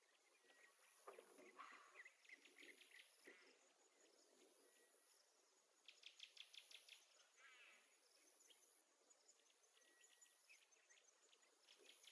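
Near silence: faint room tone, with short trains of quick, faint chirps now and then.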